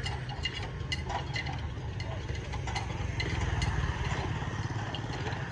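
An engine idling steadily, with scattered light metallic clicks and clinks over it.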